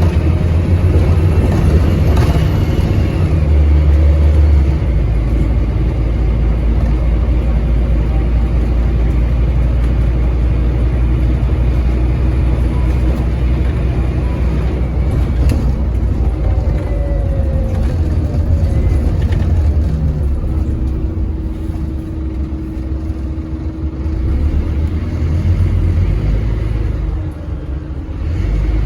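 Scania N230UD double-decker bus's diesel engine running steadily under load through the ZF Ecomat automatic gearbox. The engine note changes about five seconds in, and the sound dips briefly near the end before picking up again.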